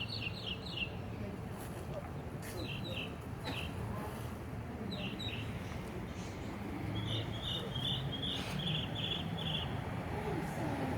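Bird chirping in quick runs of short, high notes: a run at the start, a few short groups, then a longer run of about ten notes near the end. A steady low outdoor background and a few faint clicks lie underneath.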